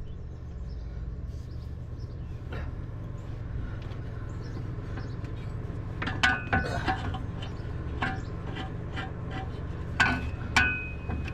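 Steady low hum. About halfway through, a string of sharp metallic clinks and knocks begins, each ringing briefly at the same few pitches, like hard metal objects such as tools or parts being handled and set down.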